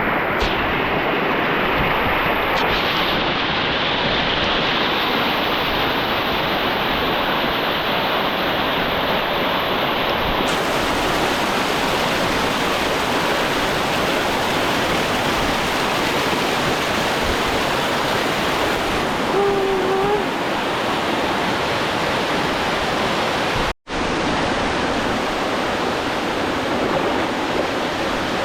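Waterfall water falling and rushing in a steady, loud, even roar. It cuts out for an instant near the end.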